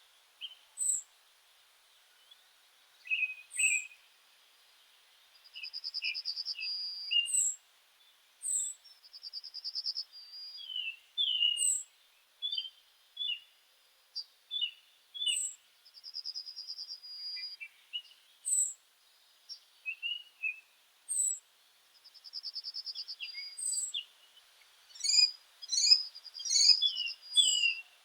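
Several small birds singing and calling: short high chirps repeat every second or two, a rapid buzzy trill comes every four to six seconds, and lower chirps fill the gaps, growing busier with overlapping calls near the end.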